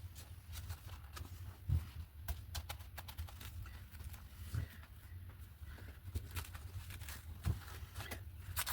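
Paper being handled and pressed down: scattered small crinkles and clicks, with three soft thumps about three seconds apart, over a steady low hum.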